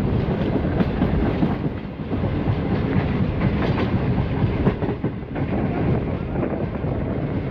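Jinnah Express passenger train running along the track, heard from beside the coach: a steady rumble of steel wheels on the rails with scattered clicks as the wheels pass over rail joints.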